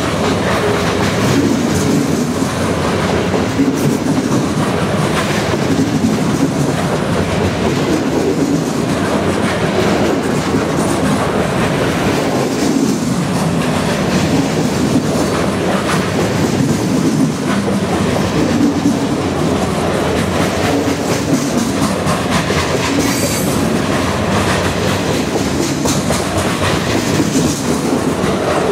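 Loaded centerbeam lumber flatcars of a long freight train rolling past: a steady, loud rumble with the wheels clicking over the rail joints.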